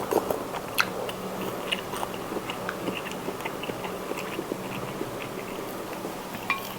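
Close-miked chewing of spicy seafood instant noodles, with many small mouth clicks, one sharper about a second in, over a faint steady hum.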